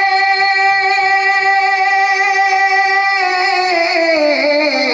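A naat reciter's singing voice holding one long steady note for about three seconds, then sliding down in a wavering melismatic run.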